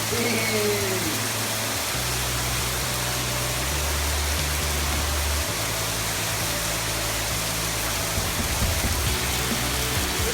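Hail and rain pelting down in a dense, steady hiss.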